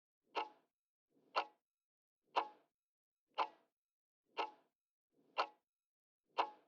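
Clock-tick sound effect ticking steadily once a second, seven ticks: a quiz countdown timer running while the answer is awaited.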